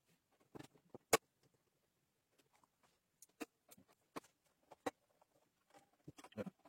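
Scattered light clicks and knocks of a mini fog machine's parts being handled and fitted back together, with one sharper click about a second in and a small cluster of knocks near the end.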